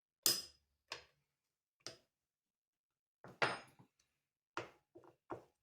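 Sharp metallic clinks and knocks of tools and small metal engine parts being handled during reassembly, about seven separate strikes with short gaps between them. The loudest comes a little past halfway and rings briefly.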